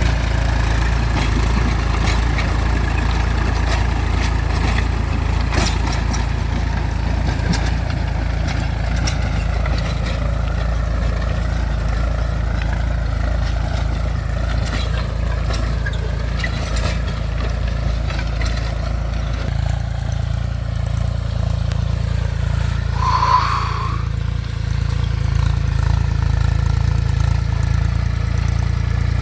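Mahindra 275 DI TU tractor's diesel engine running steadily. A brief high-pitched sound cuts in once near the end.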